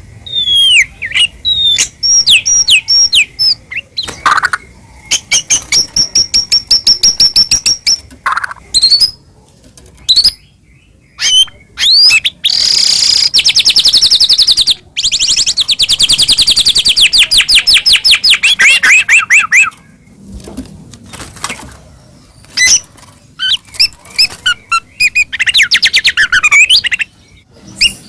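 White-rumped shama (murai batu) singing in rapid whistled phrases, with fast trills of repeated notes and some harsher calls, broken by short pauses.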